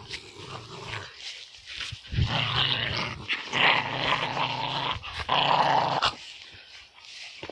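A dog growling in three long bouts between about two and six seconds in.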